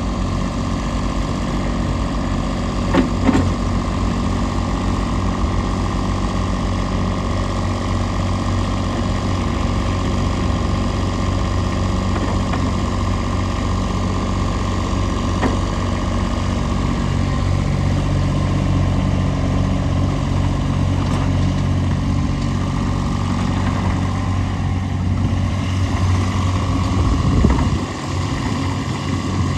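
Ditch Witch SK800 walk-behind skid steer loader's engine running steadily, with a few sharp knocks about three seconds in. The engine note shifts about halfway through, and there is a brief clunk near the end.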